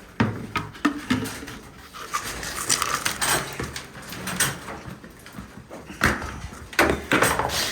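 Racing pigeons in a loft cooing, with their wings flapping and knocks and rustles of birds moving about.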